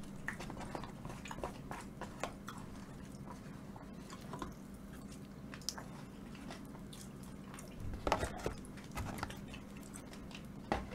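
A person chewing food, with scattered small clicks and crunches and a short cluster of them about eight seconds in. A faint steady hum runs underneath.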